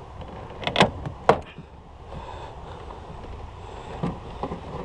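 Plastic retaining clips of a GM pickup's door-panel window switch bezel snapping as the bezel is pried up with a flat-blade screwdriver: two sharp clicks about half a second apart near one second in, then a few fainter ticks near the end.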